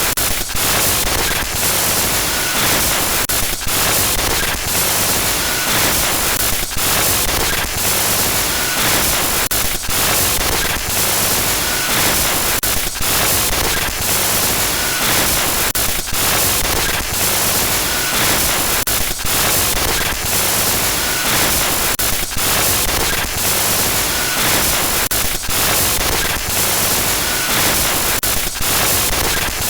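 Loud, steady static hiss used as a glitch horror sound effect, broken by short crackling dropouts about once a second, with a faint short beep now and then.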